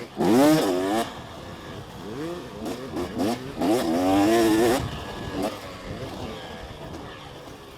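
Two-stroke dirt bike engine running on the trail, revved hard in two bursts of wavering, rising and falling pitch, near the start and again around four seconds in, with lower running between.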